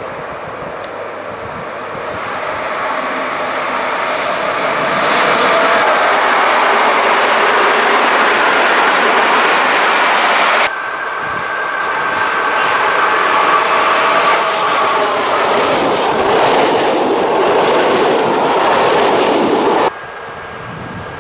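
An electric-hauled passenger train passing close: a steady rumble of wheels on rail with clatter over the rail joints, swelling as the coaches go by. It breaks off abruptly about eleven seconds in and starts again, and this second pass carries a thin, high, steady squeal.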